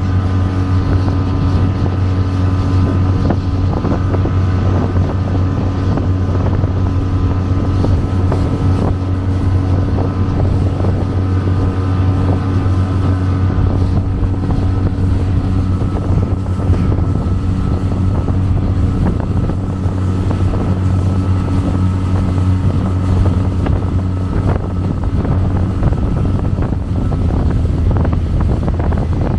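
Motorboat engine running steadily at speed across open water, a constant low drone with wind buffeting the microphone.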